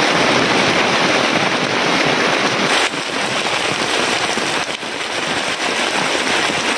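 Heavy rain pouring down in a loud, steady hiss, with a slight dip in level about three seconds in.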